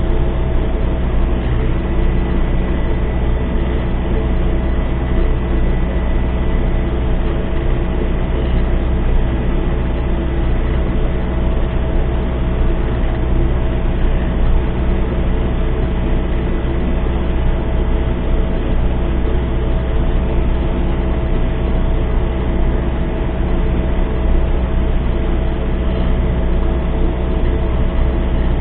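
MTZ-892 tractor's four-cylinder diesel engine running steadily at constant speed.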